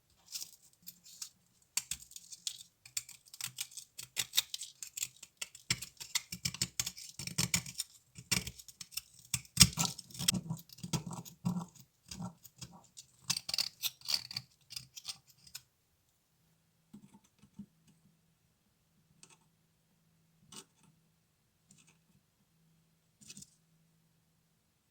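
Rapid clicking and scratching of small hand tools working on a diecast model car, dense for about fifteen seconds, then only a few scattered clicks over a faint steady hum.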